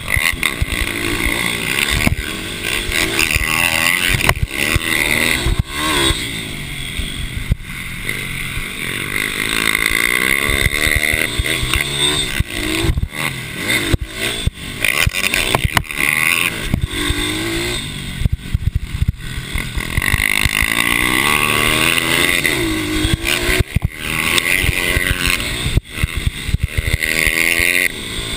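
Mini racing motorcycle engines running hard, their pitch rising and falling repeatedly as the bikes accelerate and slow through the track.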